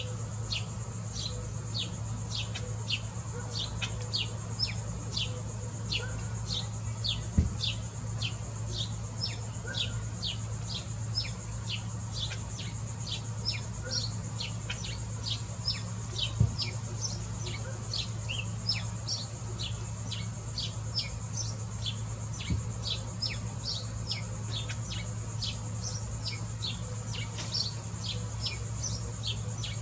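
A bird chirping over and over, short high chirps about two to three a second without a break, over a steady high insect hiss and a steady low hum.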